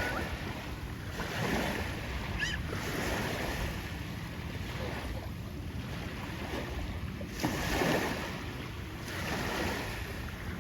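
Small waves lapping at a calm shoreline, with wind rumbling on the microphone. A brief louder rush of water about three-quarters of the way through.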